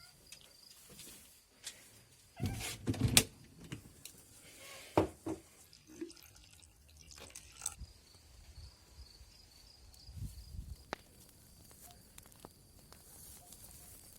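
Crickets trilling steadily at night, a faint high chirring, with a few louder rustles and knocks about two and a half seconds in and again around five seconds.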